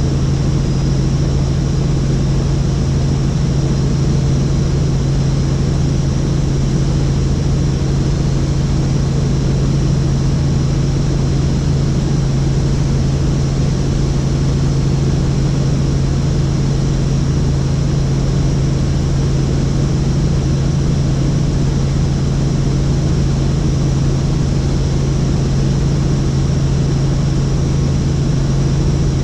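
Helicopter in flight: a loud, steady drone of engine and rotor with a constant low hum and no change in pitch.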